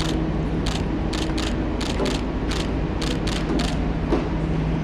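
Mechanical clicking and rattling, about two or three sharp clicks a second and irregularly spaced, over a steady low hum.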